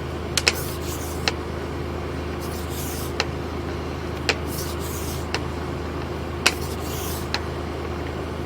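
Steady low machine hum, like an engine running, with scattered sharp clicks at irregular intervals and a few brief soft hisses.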